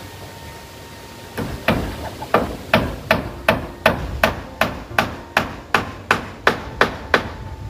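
A hammer driving a nail into corrugated zinc roofing sheet, with a long steady run of about seventeen sharp blows at roughly three a second. The blows start about a second and a half in and stop just before the end.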